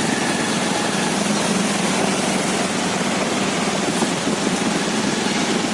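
Steady street noise with vehicle engines running, an even rush without distinct events.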